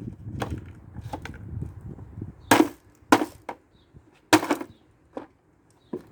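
Hammer blows on the plastic body of a kids' ride-on toy car: a few light knocks, then three hard strikes in the middle, then a couple more light knocks.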